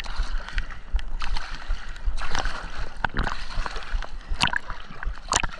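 Water sloshing and splashing close to a GoPro as a person swims through it, with irregular splashes and two sharper ones near the end.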